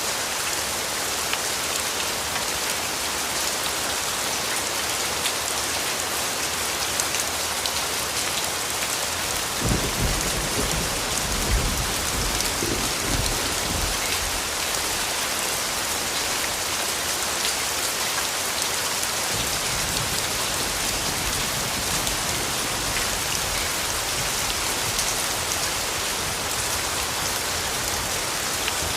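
Steady rain pattering, with a low rumble of distant thunder rising about ten seconds in and fading after a few seconds.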